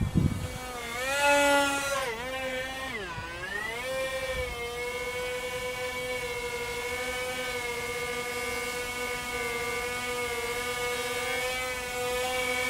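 Brushed electric motors and propellers of an XK X420 VTOL RC plane whining. The pitch dips and rises over the first few seconds as the throttle changes, then holds steady. A brief low thump comes at the very start.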